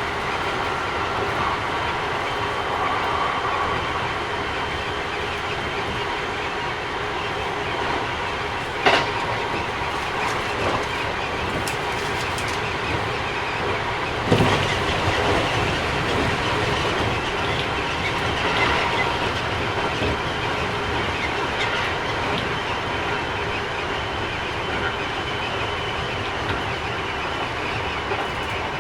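Running sound inside a Keikyu 1000 series electric train with Mitsubishi IGBT inverter at speed: a steady rumble of wheels on rail with faint steady tones. Two sharp knocks come from the track, about 9 and 14 seconds in, the second the louder. The uploader finds this set a little noisier than others.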